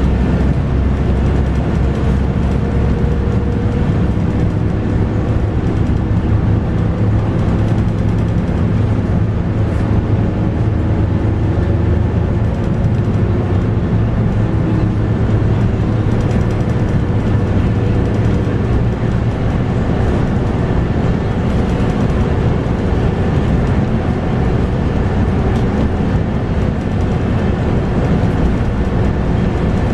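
Scania K230UB bus's 8.9-litre five-cylinder DC9 diesel engine running under way, with its ZF Ecomat six-speed automatic gearbox, heard from on board. A deep, continuous rumble with engine tones that slowly rise and fall as the bus drives.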